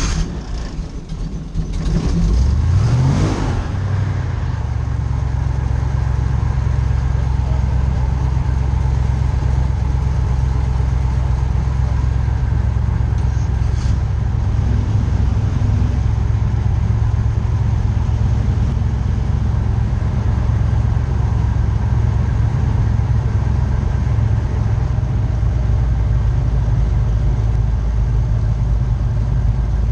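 Airboat engine starting up, revving briefly about two seconds in, then settling into a steady loud run.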